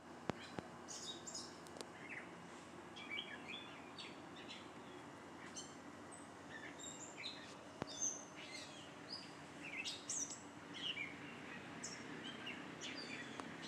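Songbirds chirping: many short, high chirps and whistled notes from several birds, scattered irregularly, over a faint steady low hum.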